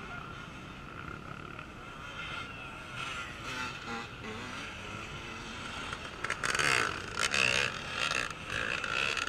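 Off-road race motorcycles running with the throttle blipped up and down, the engine pitch rising and falling. From about six seconds in they get much louder in short surges as bikes come close.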